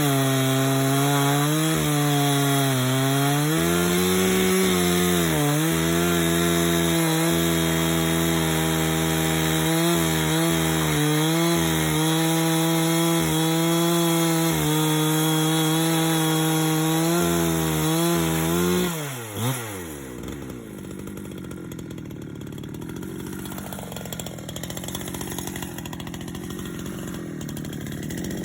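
Chainsaw fitted with a mobile sawmill attachment, ripping a plank from a log at high revs, its pitch dipping again and again as the chain bogs down in the wood. About two-thirds of the way through the throttle is let off and the engine falls to a quieter idle.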